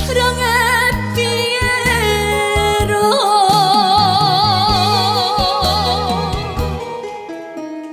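Live trot song: a female singer holds a long note with wide vibrato, starting about three seconds in, over a live band with bass and drum hits.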